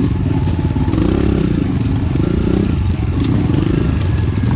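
Enduro motorcycle engine running under load, its pitch rising and falling with the throttle, with short clattering knocks over it.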